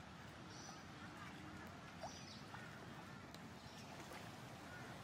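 Faint outdoor ambience with short high-pitched bird chirps repeating every second or two, and a few brief lower calls in the distance.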